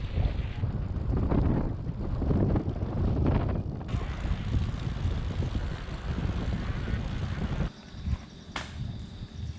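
Wind buffeting the microphone as a low, uneven rumble. It drops suddenly near the end, followed by a single sharp click.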